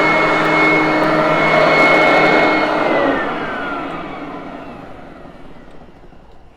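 Hoover Conquest upright vacuum running steadily with a high whine, then switched off about three seconds in: the motor's whine falls in pitch and fades as it winds down.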